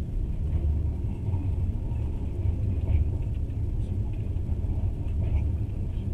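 Moving passenger train rumbling steadily on the track, heard from inside the carriage, with a slightly louder knock about three seconds in.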